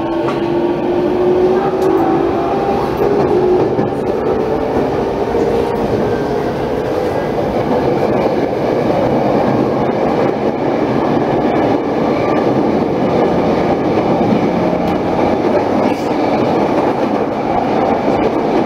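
Saikyo Line electric commuter train accelerating away from a station, heard from inside the car. The motor whine rises in pitch over the first few seconds, then gives way to a steady rumble of wheels running on rails.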